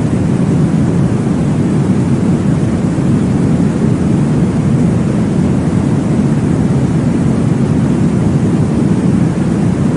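A steady, deep whooshing noise, heavy in the bass and unchanging: a sleep-noise track made to mimic the blood-flow whoosh of the womb and lull a baby to sleep.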